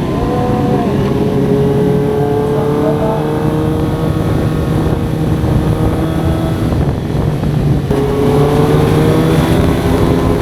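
Suzuki GSX-R 750 inline-four with a full Yoshimura exhaust, pulling under way, its pitch climbing slowly. About seven to eight seconds in the note breaks and drops as it shifts up a gear, then climbs again.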